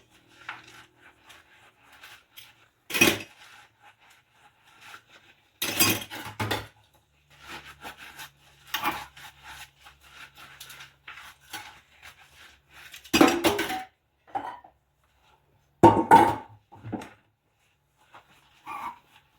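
Dishes and cutlery clattering and clinking as they are washed by hand, in scattered bursts separated by short pauses, with two louder clatters in the second half.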